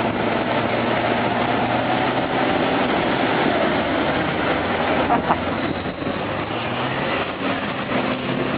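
Diesel engine of a Kirovets K-700 tractor running steadily under a dense mechanical noise, with a brief sharp click about five seconds in.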